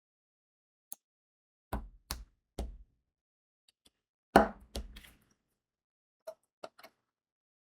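Diamond painting work sounds: sharp clicks and knocks as crystal drills are pressed onto the canvas and the tools and tray touch the table. They come in irregular groups, and the loudest knock falls about four and a half seconds in.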